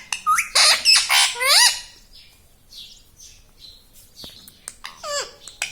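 Pet green parrot calling: loud squawks with sliding pitch for about the first two seconds, then soft scattered chirps, and another short run of calls near the end.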